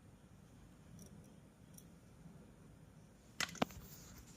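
Quiet room tone, then a couple of sharp clicks or knocks close together about three and a half seconds in.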